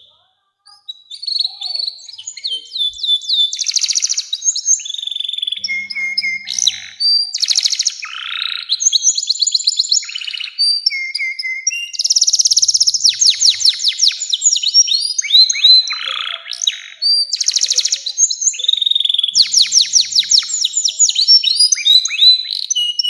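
Male domestic canary singing a long, unbroken song of fast rolling trills, rapid repeated notes and sweeping whistled phrases that shift in pitch from phrase to phrase. The song starts about a second in after a brief silence.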